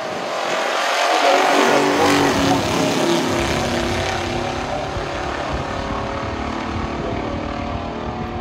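Two stock muscle cars' V8 engines at full throttle as the cars race down a drag strip. The sound swells to its loudest about a second in, then runs on steadily.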